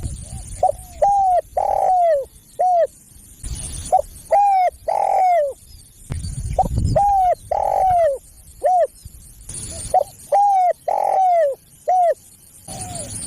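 Spotted dove (tekukur) song: phrases repeat about every three seconds, each a few short coos followed by longer coos that fall in pitch. It is a caller recording used to lure tekukur. Low rumbles sound between some of the phrases.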